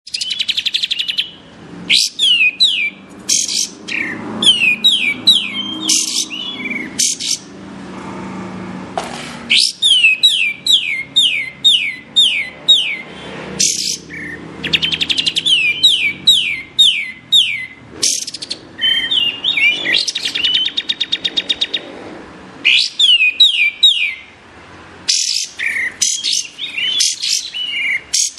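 Kapas tembak songbird singing: quick runs of sharp whistled notes, each sliding steeply down in pitch, given in phrases of several notes with short pauses between them.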